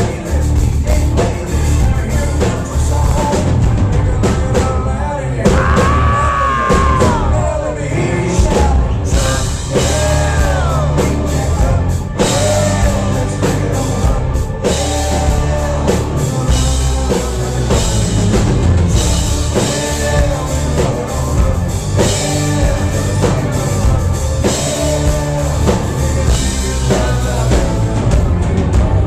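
A country-rock band plays live, with a steady drum kit and a male lead vocal singing over it.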